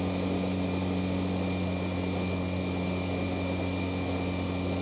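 Outboard motor running at a steady speed, pushing an aluminum boat: an even, unchanging drone.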